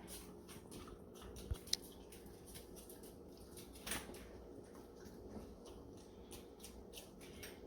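Faint scattered light clicks and taps over a steady low room hum.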